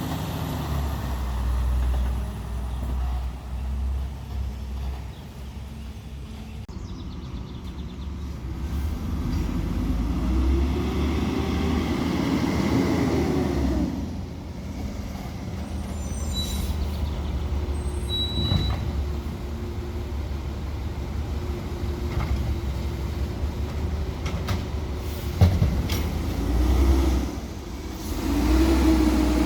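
Peterbilt 320 side-loader garbage truck's diesel engine revving up and falling back several times, with a steady whine between the revs. One sharp knock comes near the end.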